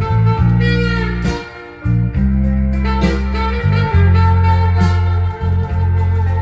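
Recorded music with guitar over a steady line of held bass notes, played from a vinyl record through a moving-magnet phono preamp.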